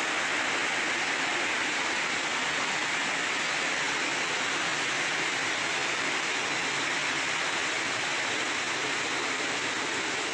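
Creek water rushing steadily, a continuous even hiss with no breaks.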